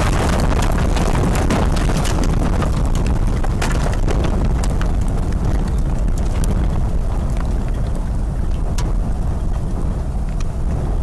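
Strong storm wind buffeting the microphone in a heavy, continuous low rumble, with scattered sharp ticks and taps.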